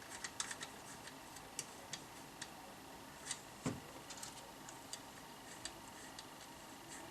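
Light, irregular clicks and taps of small hard objects being handled, with one duller knock about three and a half seconds in.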